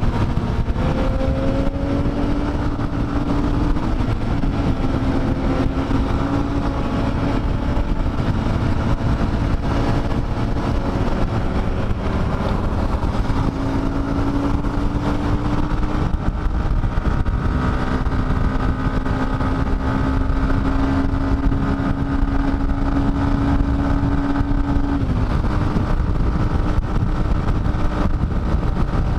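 Dafra Next 250's single-cylinder engine running at cruising speed under heavy wind rush. The engine note holds steady, climbs slowly for several seconds, then drops abruptly near the end.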